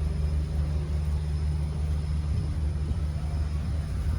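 Steady low hum of an engine running, holding one pitch throughout.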